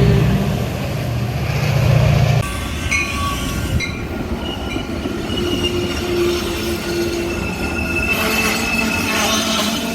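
Metra commuter train moving through the station: a low rumble that drops away abruptly about two and a half seconds in, then thin, steady metallic squealing from the train's wheels on the rails.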